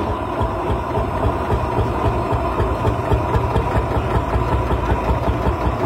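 1941 Lanz Bulldog's 5-litre single-cylinder two-stroke hot-bulb engine running steadily with a rapid low thumping beat.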